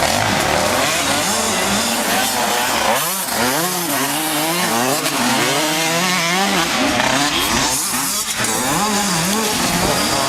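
85cc two-stroke motocross bike engine revving hard, its pitch repeatedly rising and falling as the throttle is opened and shut.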